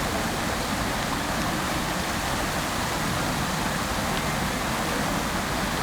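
Fountain water splashing down steadily, an even rushing hiss that does not change.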